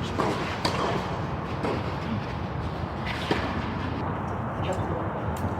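A few sharp, separate hits of a tennis ball off rackets and the court, over steady outdoor background noise.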